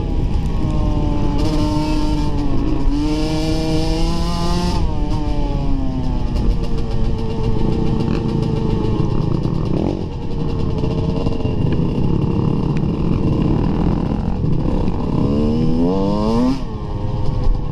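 Dirt bike engine being ridden hard, its pitch rising and falling as the rider revs and shifts, with a long climb in revs near the end.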